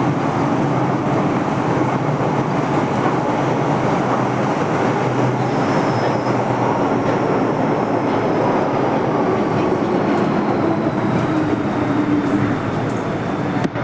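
MTR Kwun Tong line M-Train electric multiple unit running along the line: a steady rumble of wheels on rail with faint high whining tones above it.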